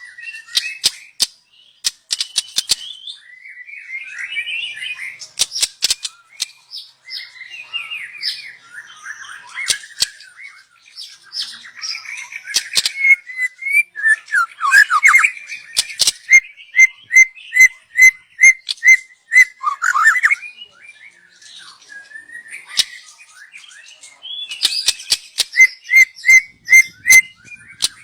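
Young white-rumped shama singing: varied warbled phrases and runs of quick repeated notes, mixed with sharp clicking ticks.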